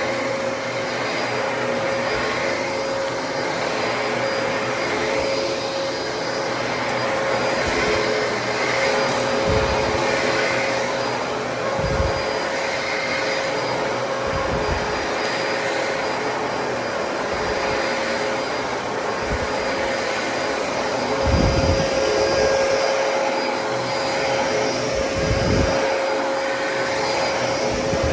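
Dyson DC33 upright vacuum cleaner running steadily with a constant motor whine, with a few short low thumps now and then.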